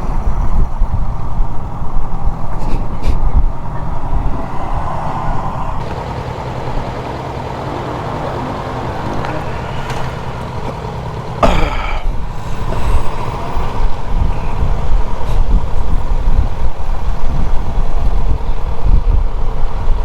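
Motorcycle riding at low speed, its engine running under heavy wind rumble on the microphone. A brief whine falling in pitch sounds about halfway through.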